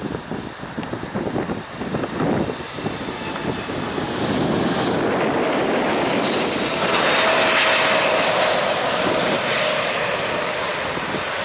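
Jet airliner passing close by, its engines' rush and high whine building to a peak about seven seconds in, the whine falling slightly in pitch as it goes. Wind buffets the microphone in the first couple of seconds.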